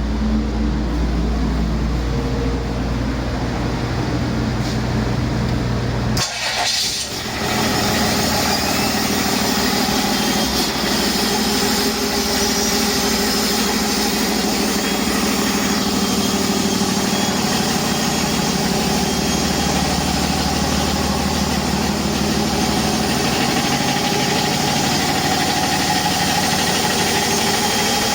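Cummins ISB 6.7L inline-six turbo diesel running steadily. About six seconds in, the sound changes abruptly from a deep, bass-heavy run to a brighter, more high-pitched one, then holds steady.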